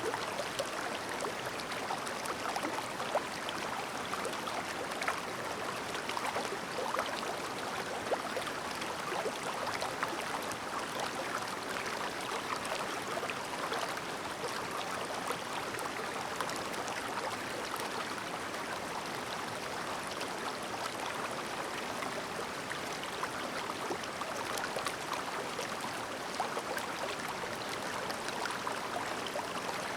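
Clear shallow stream babbling over stones: a steady rush of water with constant small splashes and trickles.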